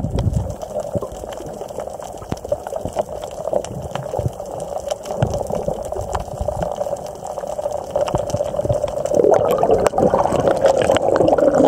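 Water gurgling and sloshing, with many small scattered clicks.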